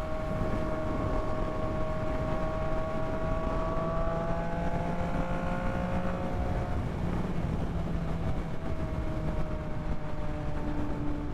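Yamaha MT-09's three-cylinder engine running under way, heard with wind noise on a helmet microphone. The engine note climbs slowly, drops about seven seconds in, then holds steady.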